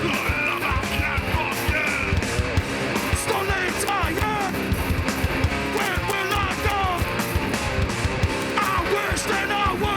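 A hardcore band playing live at full volume, with distorted electric guitars over fast, dense drumming.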